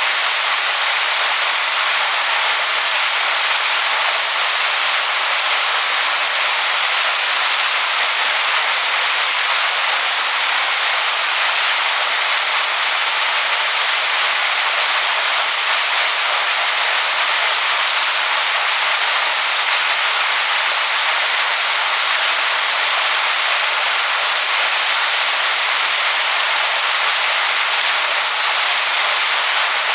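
Waterfall rushing over rocks: a steady, loud, hissing rush of falling water.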